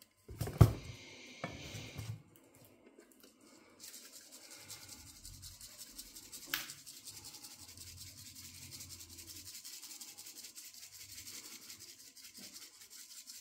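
A sharp knock about half a second in, then from about four seconds in a steady fine scratchy grinding: a spice grinder being twisted to season the chicken.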